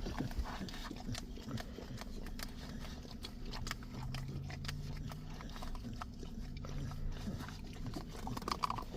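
American bully puppy licking and lapping at a pup cup: a steady run of quick, wet licking clicks, with a low grunting sound from the dog for a few seconds in the middle.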